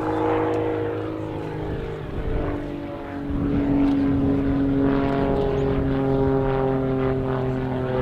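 Grob 115E Tutor's 180 hp Lycoming four-cylinder piston engine and propeller running in aerobatic flight. About three seconds in, the engine note drops slightly in pitch and the sound grows louder.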